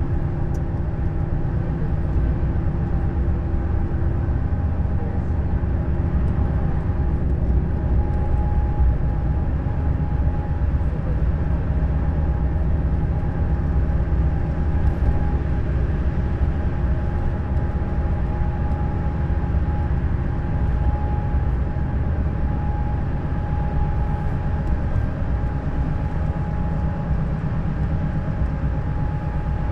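Neoplan Skyliner N 1122/3C double-decker coach running at a steady speed: an even engine drone with road noise and a steady whine above it, heard on board.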